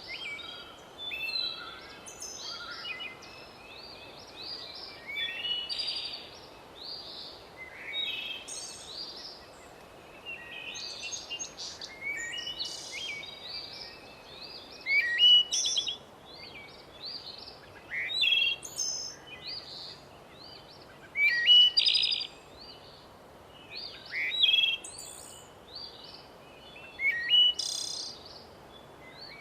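Several birds chirping and singing, short calls and trills overlapping throughout, some louder calls standing out now and then over a faint steady background hiss.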